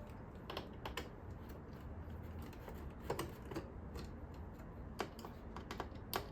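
Light, irregular clicks and taps of a precision screwdriver and small screws working on a Roomba's circuit board, a few strokes spread out over several seconds.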